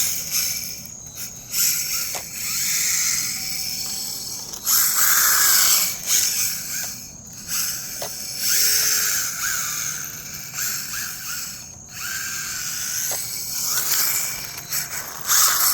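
Electric motor of an RC rally car whining in repeated bursts that rise and fall in pitch, with its tires spinning and skidding as it drifts on a hard surface.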